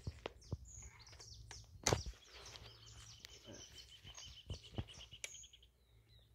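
Small wild birds chirping with short rising and falling calls, and a rapid, even trill starting about two and a half seconds in and lasting about three seconds. A sharp click about two seconds in.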